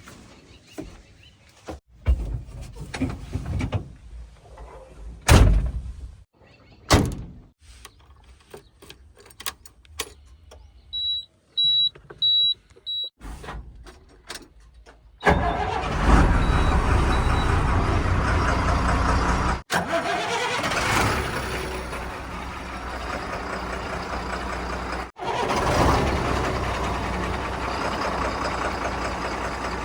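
Diesel engines of earthmoving machinery and trucks working. Scattered knocks and clunks come first, then four short high beeps near the middle, then a loud engine running steadily through the second half, cut off abruptly twice.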